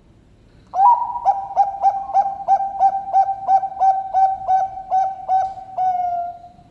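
Bangkok perkutut (zebra dove) cooing its song: an opening note, then a run of about fourteen short coos at roughly three a second, closing on one longer, slightly falling note.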